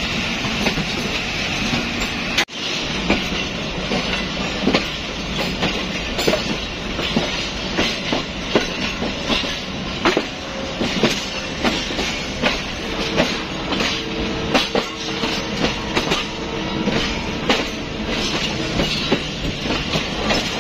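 Passenger train running on the rails, with a constant rumble and irregular clicking and clacking of wheels over rail joints. A faint steady whine comes in for a few seconds in the second half. The sound breaks off briefly about two and a half seconds in.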